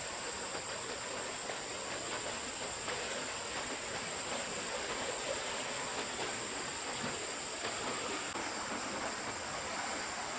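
A forest stream running steadily, with a constant high-pitched insect drone above the water.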